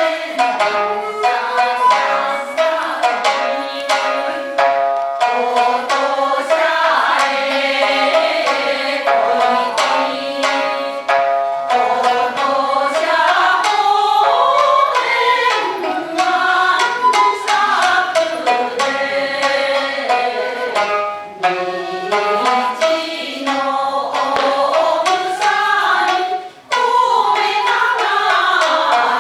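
Japanese min'yō folk song: voices singing a wavering, ornamented melody over a plucked shamisen accompaniment, with a brief break about two-thirds of the way through.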